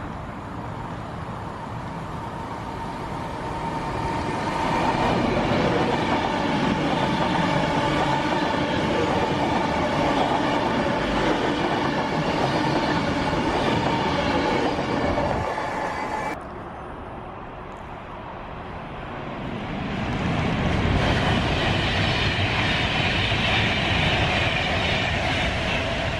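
A train passing through the station: a rushing rail noise with steady tones builds up over a few seconds and stays loud. It breaks off suddenly about sixteen seconds in, and train noise builds again a few seconds later.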